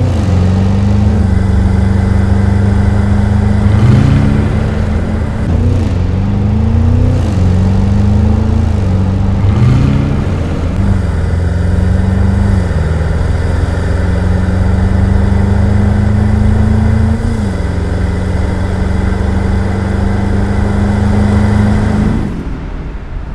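Porsche Cayenne Turbo E-Hybrid's 4.0-litre twin-turbo V8 accelerating, its pitch climbing and dropping back sharply at each of several quick upshifts. It then holds a long steady pull with one more shift, and fades out near the end.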